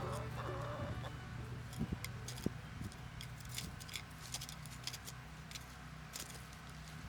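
Soundtrack music fading out in the first second, then scattered faint clicks and ticks at irregular intervals over a low steady hum.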